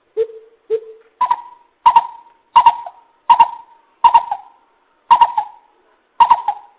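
Coucal (bìm bịp) hooting as a recorded decoy call: two low hollow hoots, then a series of seven higher hoots spaced more and more slowly, each trailing off with an echo.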